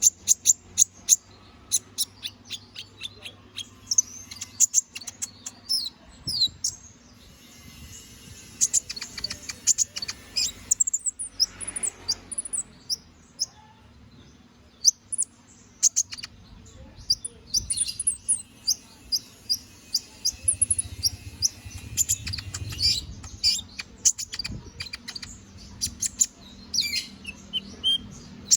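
Domestic canary singing in long runs of rapid, sharp chirps, trills and rising and falling whistles, broken by brief pauses.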